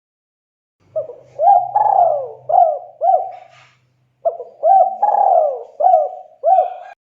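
Spotted dove (tekukur) cooing: two phrases of about five coos each, the first starting about a second in and the second about four seconds in, separated by a short pause.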